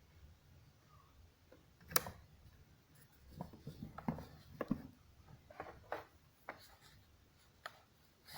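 Irregular faint clicks, taps and rubbing as a Bosch GST 700 jigsaw is handled, with one sharp click about two seconds in and a cluster of knocks in the middle.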